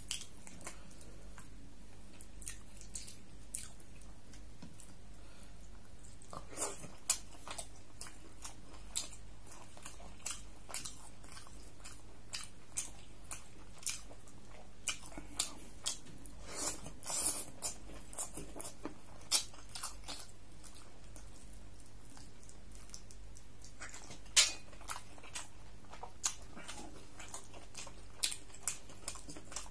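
Close-miked eating by hand: chewing, wet lip smacks and the squish of fingers working paratha into oily beef curry, as scattered short clicks and smacks. The loudest smack comes about twenty-four seconds in.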